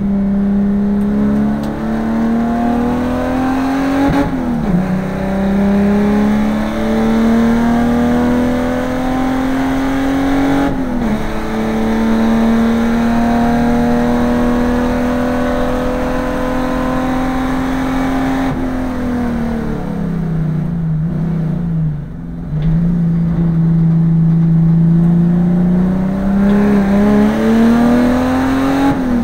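Holden VN Commodore race car engine heard from inside the cabin, pulling hard with its note climbing, and upshifts about four and eleven seconds in. About two-thirds through, the engine comes off the throttle and its note steps down through downshifts, then it picks up and climbs again toward the end.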